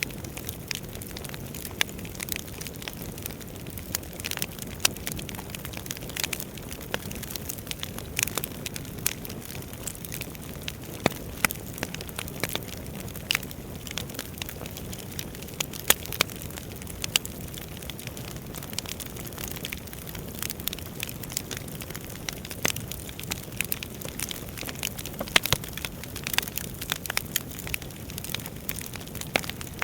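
Wood fire burning in a fireplace: a steady low rush of flames with irregular crackles and sharp pops of burning logs.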